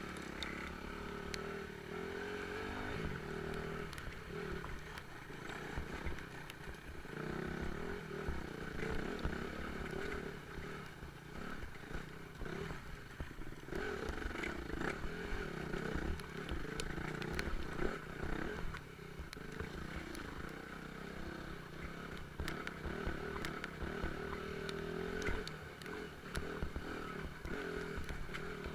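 Off-road motorcycle engine running under changing throttle, its pitch rising and falling again and again, with scattered sharp clicks and clatter throughout.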